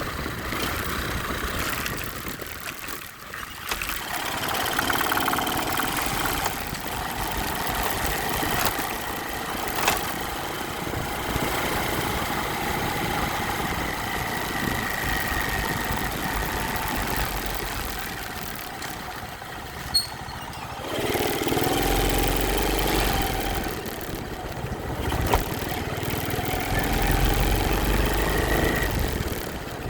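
Motorcycle engine running on the move, its pitch rising and falling with the throttle. It drops away briefly about three seconds in and picks up sharply again about twenty-one seconds in.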